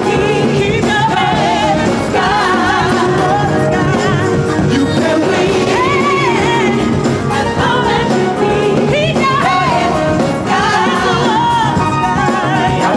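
Live gospel-pop song performed by a vocal group with a band: sung vocals with wavering, drawn-out runs over a steady backing.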